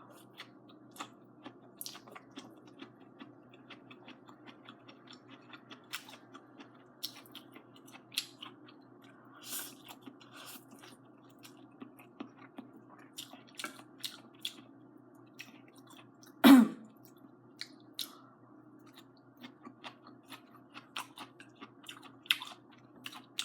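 Close-up chewing of stir-fried string bean and angel hair noodles, with many small sharp mouth clicks. One short, much louder sound stands out about two-thirds of the way through.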